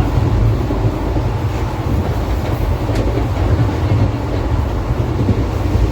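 Indian Railways passenger train running along the track, a steady low rumble with a single click about three seconds in.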